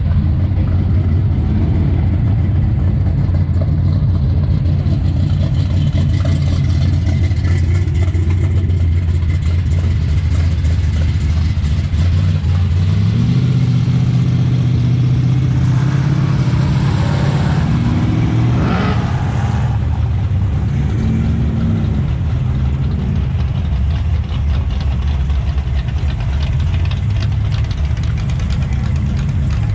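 Muscle car V8 engine running with a steady deep rumble, then revving up and climbing in pitch from about halfway through for several seconds, with a shorter rev soon after.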